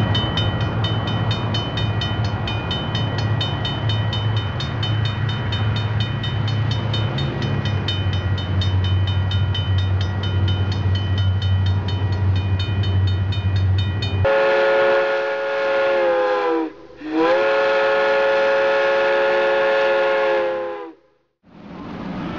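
Shinkansen train running with a steady low hum and a fast, even ticking. Then its horn sounds in two long blasts, the second longer, each sliding in pitch as it starts and stops.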